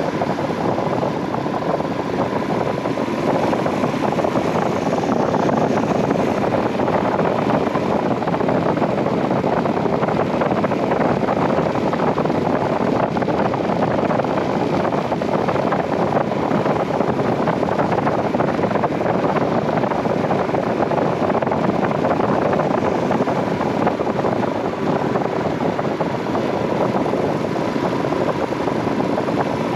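Steady wind rush on the microphone and the running of a 2018 Royal Enfield Himalayan 411 motorcycle's single-cylinder engine while riding at an even speed.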